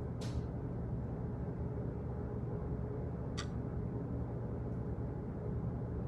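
Steady low office background hum, with two short sharp clicks about three seconds apart.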